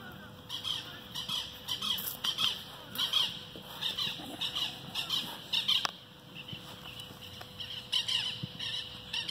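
Repeated harsh squawking calls from a bird, many in quick succession, easing off for a couple of seconds before starting again near the end.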